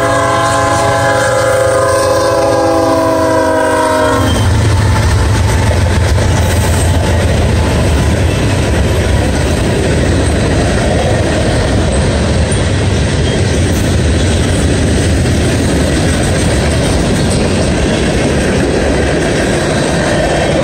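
Norfolk Southern freight locomotive's air horn sounding a chord that cuts off about four seconds in. Then the steady rumble and clickety-clack of a mixed freight train's cars rolling past.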